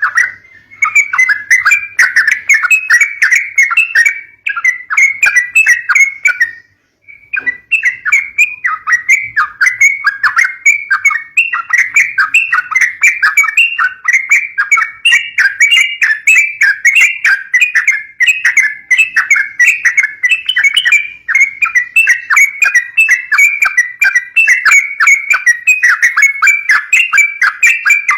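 Yellow-vented bulbul (trucukan) calling in a rapid, unbroken chatter of short notes, pausing briefly twice near the start.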